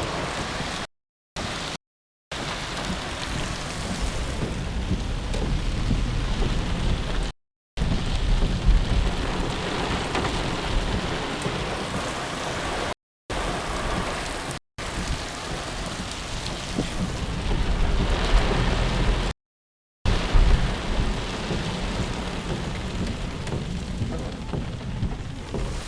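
Heavy rain pouring steadily, with low rumbling underneath, broken several times by brief moments of total silence.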